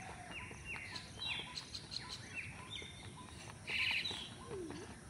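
Birds calling: a series of short, falling chirps, with a louder, harsh call about four seconds in.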